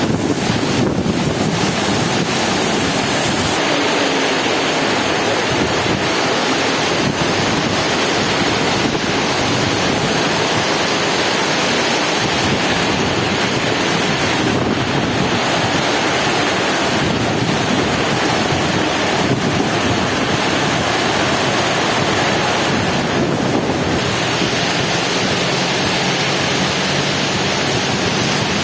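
Heavy rain pouring in a steady, loud hiss, with strong wind buffeting the microphone in a low, uneven rumble.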